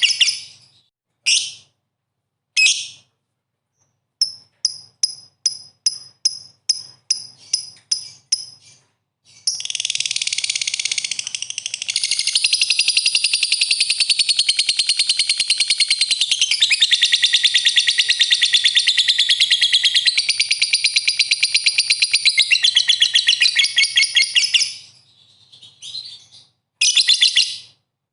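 Lovebird in full song: a few separate high chirps, then a run of quick chirps about two a second, then a long unbroken, rapid chattering song of some fifteen seconds. It breaks up into short bursts near the end.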